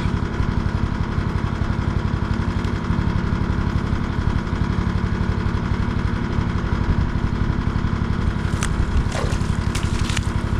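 Small engine running steadily, with a fast even beat, and a few sharp clicks near the end.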